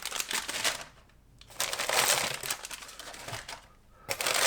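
A parcel being opened by hand: packaging and bubble wrap crinkling and rustling in bursts, with two short pauses.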